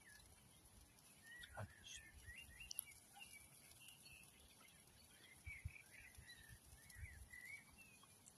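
Faint birdsong: small birds chirping and twittering in a quiet rural outdoor background, with a couple of soft clicks about one and a half and three seconds in.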